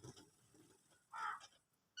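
Budgerigar calling: one short call a little over a second in and a brief pitched chirp at the end, with quiet between.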